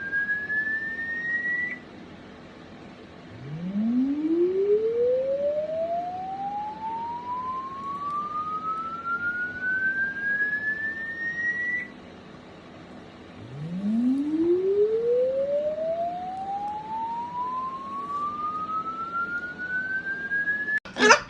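A siren-like single tone winding slowly up from low to high over about eight seconds and then cutting off abruptly, heard twice in full after the end of an earlier rise. A loud, short cry comes near the end.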